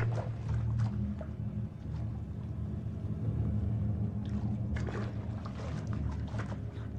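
Water sloshing and splashing as a dog swims in a tank, with irregular splashes about four to six seconds in, over a steady low hum.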